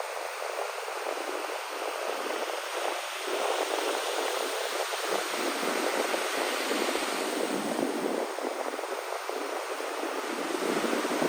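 Sea waves: a steady rush of surf that swells and eases, with no speech over it.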